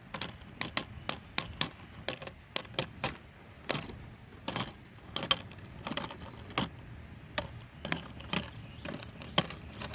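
Two 3D-printed Beyblade spinning tops clashing as they spin in a stadium: irregular sharp plastic clicks, one to three a second, over a faint steady hiss.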